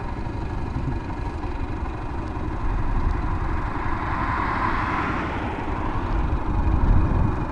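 Traffic at the highway's edge: a steady low rumble, with a vehicle passing by that swells and fades about four to six seconds in.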